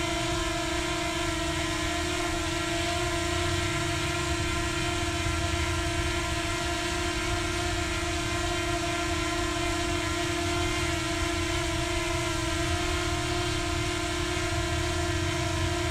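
Quadcopter drone propellers humming at a steady pitch, laid onto the flight footage as an added sound effect.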